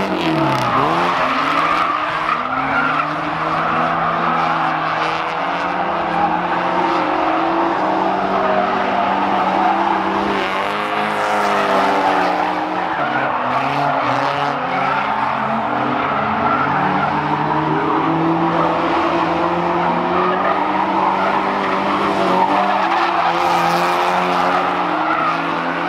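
A drift car's engine revving hard, its pitch rising and falling with throttle, over continuous tire squeal as the car slides.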